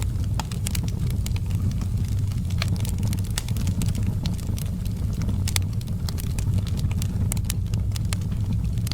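Wood fire burning in a fireplace: a steady low rumble of flames with irregular sharp crackles and pops from the logs, several a second.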